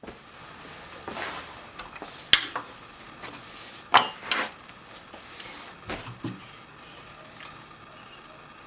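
A few scattered sharp knocks and clinks of hard objects being handled, the loudest about four seconds in.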